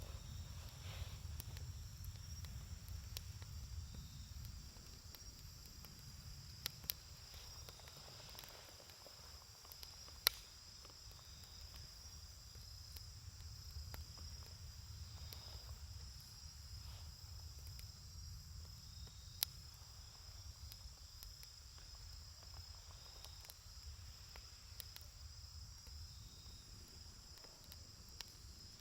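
Wood campfire burning, with a few sharp crackles and pops from the burning wood (the loudest about ten seconds in) over a low steady rumble. Crickets trill steadily in the background.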